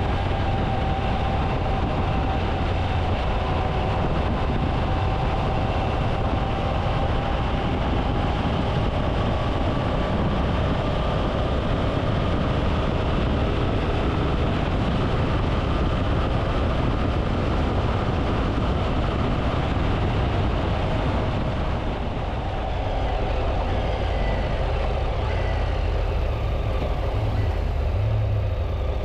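Triumph Tiger 800's three-cylinder engine running steadily while riding, mixed with wind noise, and the engine note rising near the end.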